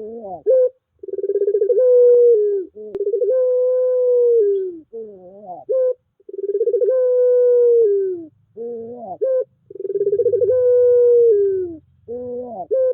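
Puter pelung dove cooing: four long drawn-out coos. Each starts with a quick stuttering rise, holds a steady note, then slides down at the end, with short rising notes between the coos. It is a lure call meant to set a silent puter dove cooing.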